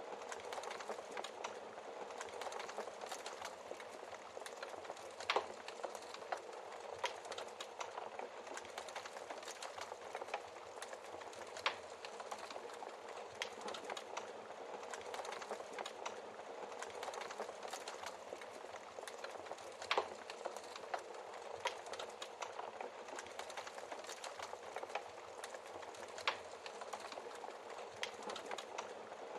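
Wood fire crackling steadily, with irregular small snaps and four louder log pops spaced several seconds apart.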